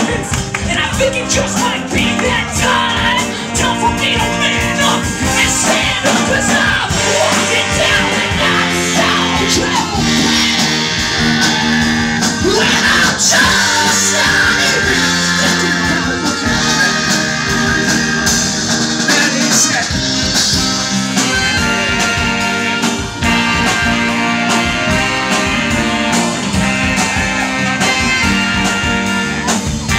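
A band playing rock music with singing, from a live performance.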